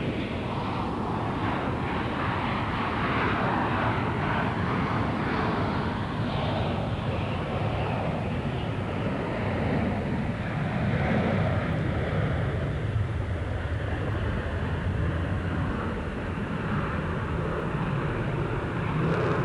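Jet aircraft engines running with a steady, continuous rumble.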